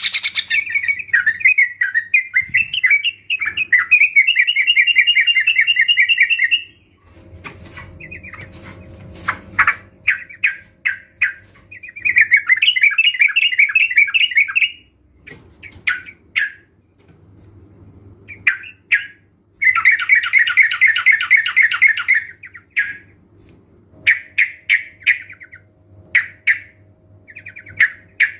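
Several young yellow-vented bulbuls (trucukan) calling, with bursts of fast, bubbling chattering phrases lasting a few seconds each and short single calls in between. The calls come from a lure recording used to set off pet trucukan singing.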